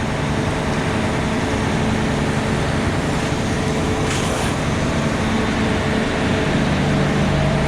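Truck engine running steadily with a low, even hum, and a brief hiss about four seconds in.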